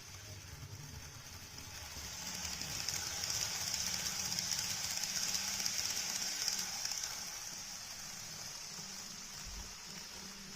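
The Cassiopeia sleeper train running past: a hissing rush of wheels on rail that builds to its loudest about three to seven seconds in, then fades, over a low hum.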